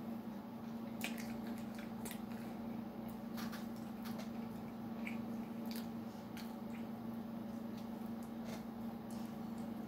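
Close-miked chewing of a cinnamon roll, with wet smacking and scattered sharp mouth clicks throughout. A steady low hum runs underneath.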